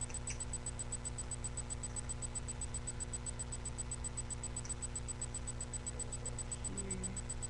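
Steady electrical hum and hiss from a webcam microphone, with a high whine that pulses rapidly and evenly. There are only a couple of faint brief rustles.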